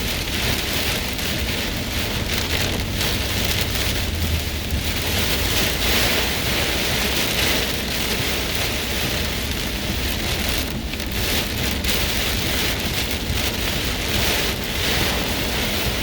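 Torrential rain pouring down steadily in a severe thunderstorm, a dense, even hiss with a low rumble underneath.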